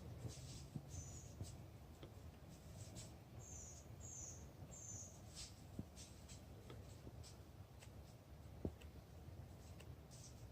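Faint bird calls: short, high, falling chirps, three in quick succession a few seconds in, over a low background rumble and scattered faint ticks.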